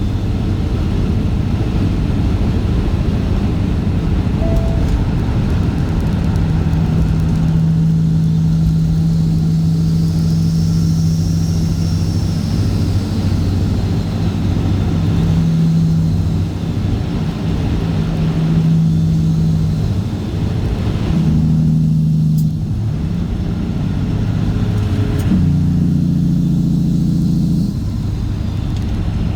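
Straight-piped Caterpillar C15 ACERT inline-six diesel in a Kenworth W900 running as the truck drives. Its engine note holds steady for long stretches, then steps up or down several times in the last ten seconds.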